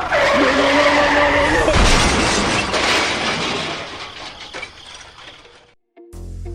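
A loud, noisy crash like something breaking or shattering, with a steady tone through its first second and a half. It fades away over about four seconds and cuts off.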